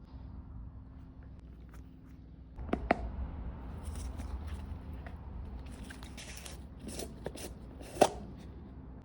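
Handling noises from cleaning a silver ladle: rubbing and scraping with a few sharp knocks, the loudest about eight seconds in.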